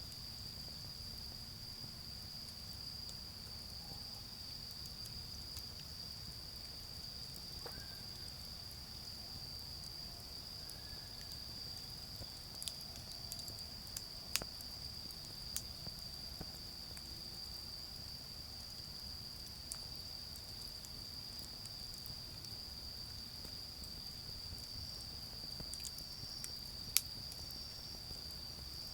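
Autumn insects trilling in one steady, high, unbroken note, over a low rumble of distant traffic. A charcoal fire gives a few sharp pops, clustered a little before the middle, with a louder single pop near the end.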